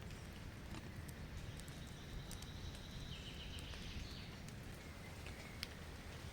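Faint forest ambience: a steady low rumble with scattered light taps, and a faint bird call between two and four seconds in.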